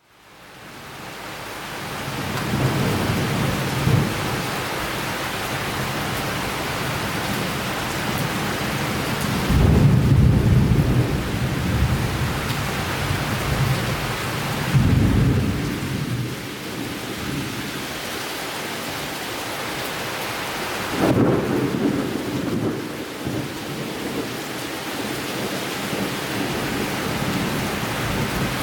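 Summer thunderstorm: steady rain with thunder rumbling four times, the strongest roll about ten seconds in. The sound fades in over the first two seconds.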